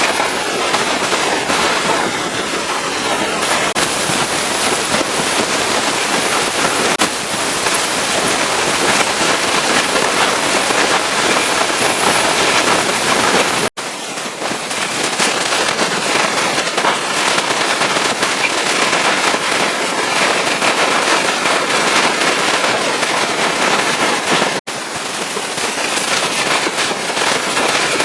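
High-pressure water spray from a pressure washer blasting against the truck, a steady loud hiss with a crackling spatter. It breaks off abruptly twice and starts again.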